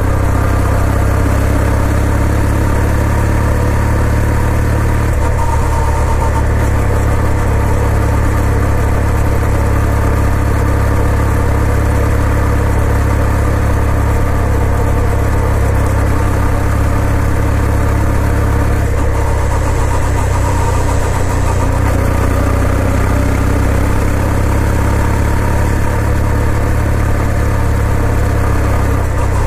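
A 2020 Kawasaki W800's air-cooled parallel-twin engine running steadily, its note shifting slightly about 5 and 19 seconds in.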